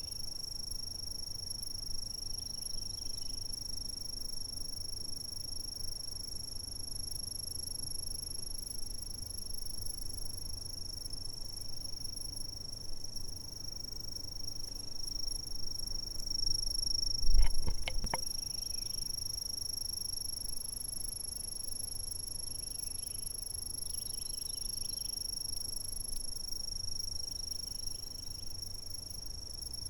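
Insects trilling steadily in one continuous high, unbroken tone, with faint softer calls scattered beneath it. A brief low thump a little past halfway through.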